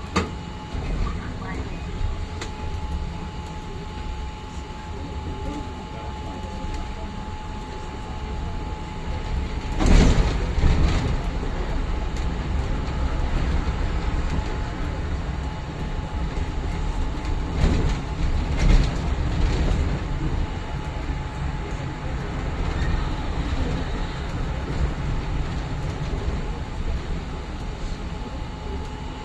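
Inside a moving city bus: a steady low rumble of engine and road, with the body rattling. There are louder clattering jolts about ten seconds in and again around eighteen seconds.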